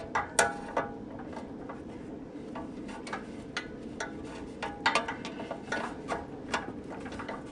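Hand tools clinking and tapping against the metal fan blade hub and motor shaft of a seized condenser fan motor, in irregular sharp knocks, a few with a short metallic ring, as the tool is worked under the hub to turn the stuck shaft.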